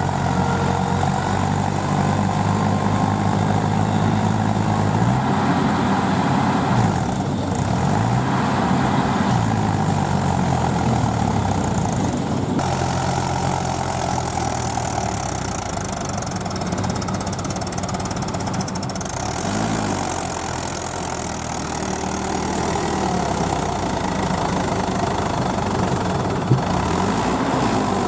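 Heavy farm-machine engine running continuously, its speed rising and falling every few seconds. There is one short sharp knock near the end.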